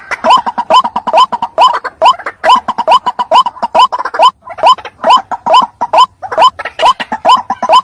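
White-breasted waterhen (teruwok) calling: a fast, even run of short upward-sweeping notes, about four a second, in the repetitive call used as a hunting lure.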